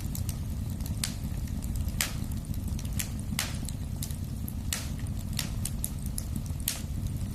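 Wood fire in a fireplace crackling, with sharp pops and snaps at an irregular few per second over a steady low rumble of burning.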